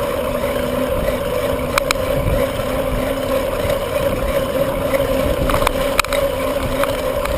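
A bicycle under way: wind rushing over the microphone with a steady hum from the moving bike, and a few sharp clicks and rattles from the bike.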